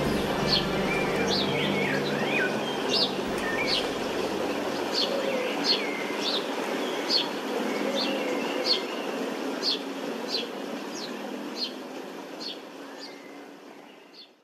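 A bird chirping over and over, one short, sharp, falling chirp a little more than once a second, over a steady outdoor background hiss. It all fades out near the end.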